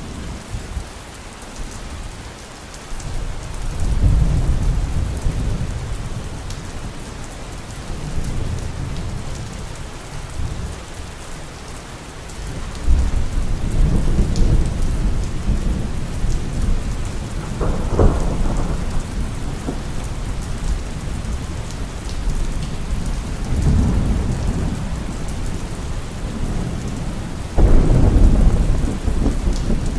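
Steady heavy rain with thunder rolling in several low rumbles. One sharper crack comes about two-thirds of the way through, and the loudest roll comes near the end.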